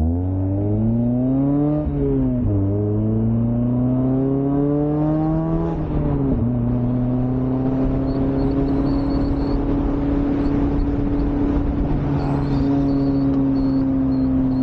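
NA Mazda MX-5's four-cylinder engine pulling away and accelerating. The revs climb, dip at an upshift about two seconds in, climb again and dip at a second upshift about six seconds in, then settle to a steady cruise over a constant rumble of road noise.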